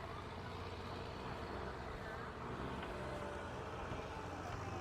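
A ferry boat's engine running steadily under way, a constant low drone with a wash of background noise.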